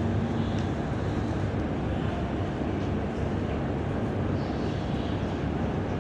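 Ship's engine droning steadily with a low hum under a constant rush of wind and water.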